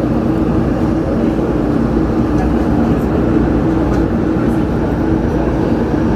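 CPTM commuter train running: a steady rumble with a constant hum over it.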